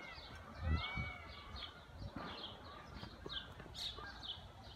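A small bird chirping over and over, short high downward-slurred notes at about three or four a second, with a few fainter whistled calls near the start. A low thump about a second in.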